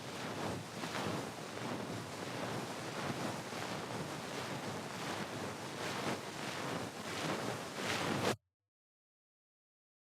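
Ear pick (mimikaki) scraping and rubbing right against the microphone, a dense run of quick scratchy strokes. It cuts off suddenly about eight seconds in, leaving dead silence.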